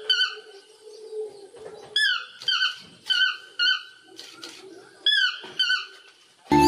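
A toucan calling: a series of short, falling calls, about eight in all, some coming in quick pairs. Loud music cuts in near the end.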